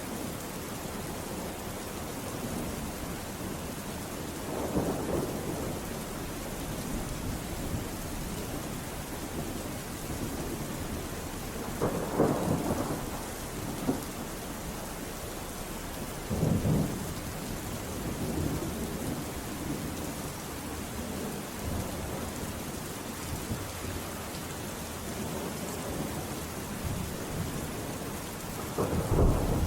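Steady heavy rain with rolls of thunder rumbling in several times. The loudest roll starts near the end.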